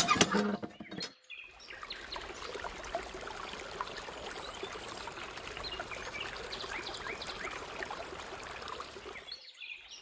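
A few sharp clacks in the first second, then birds chirping in many short rising calls over a steady hiss.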